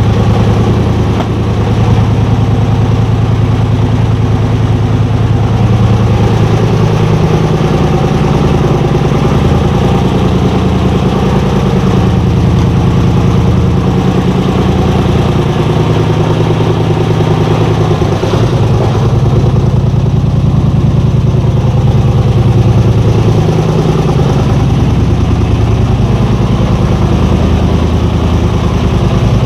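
A vehicle engine running steadily at a low, even speed, loud and continuous.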